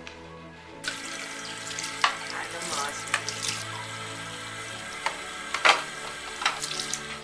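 Water running, starting suddenly about a second in, with several sharp knocks and clinks over soft background music.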